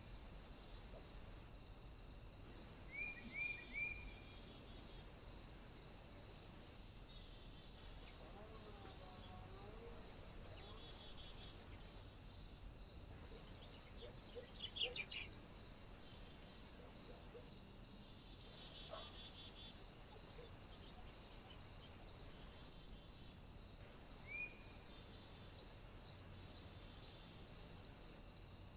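Small birds calling at a feeder: short clipped chirps, three in quick succession about three seconds in, another near the end and a brief higher flurry midway, over a steady high-pitched hiss.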